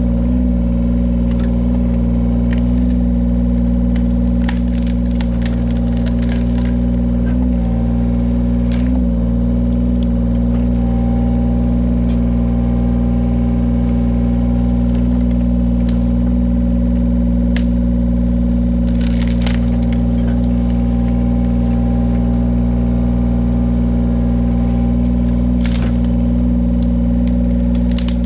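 A machine's engine runs steadily under a wood-splitting attachment, and its pitch sags slightly twice under load. Sharp cracks and snaps of wood splitting come now and then over it.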